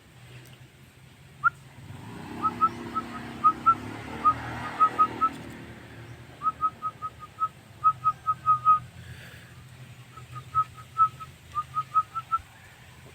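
Javan myna (jalak kebo) singing: runs of short, clear whistled notes, several a second, in three bursts with short pauses between.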